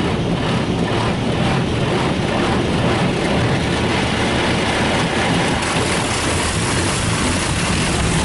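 High-pressure water jets of a touchless automatic car wash spraying the car during the rinse stage, heard from inside the cabin as a loud, steady hiss and drumming on the body. The spray gets brighter and harsher about five and a half seconds in.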